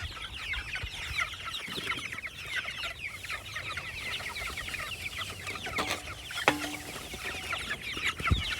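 Flock of young chickens peeping and cheeping, many short, high, falling chirps overlapping continuously. There is a single sharp knock about six and a half seconds in.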